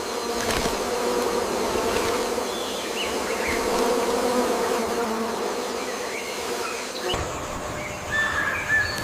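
Forest ambience dominated by a steady insect buzz, with short bird chirps over it and a brief whistled call near the end.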